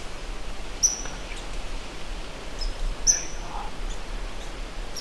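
A small bird's short, high chirps, a few of them about a second and two seconds apart, over a steady hiss of forest background noise.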